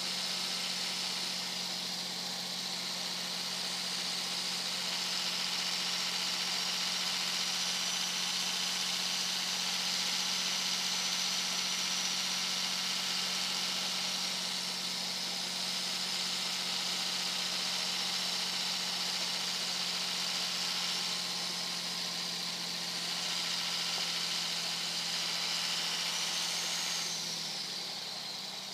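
Turbocharger whistle on a 2001 Dodge Ram 2500's 5.9-litre Cummins inline-six turbo diesel under way at highway speed: a loud, high, steady whistle over the engine's low drone. The whistle wavers slightly in pitch, climbs briefly near the end, then falls away lower.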